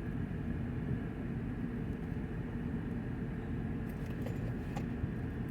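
Steady low hum inside a parked car, with a few faint clicks about four seconds in.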